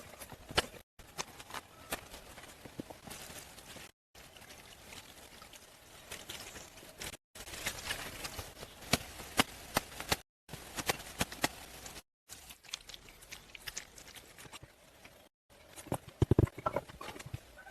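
Irregular sharp knocks and taps, with louder, deeper knocks near the end, broken up by several abrupt cuts into short clips.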